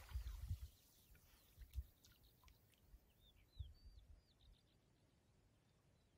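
Near silence with a few faint, short bird chirps in the middle, over a faint low rumble of wind.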